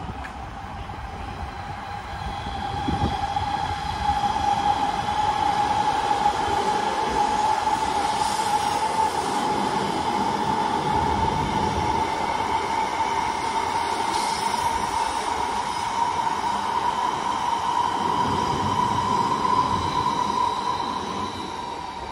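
Electric train passing the tracks below, its rolling noise swelling about four seconds in and easing off near the end. A steady high whine runs through it, rising slowly in pitch.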